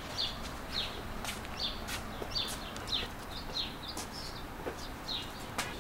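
A small bird calling, a short downward-sliding chirp repeated about every half second.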